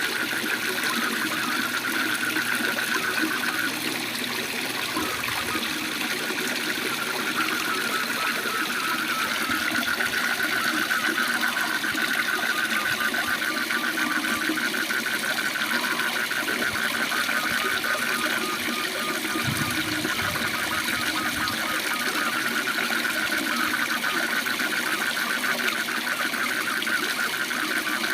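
Waterfall rushing steadily, with a chorus of frogs giving a fast, even, pulsing trill that fades and comes back several times.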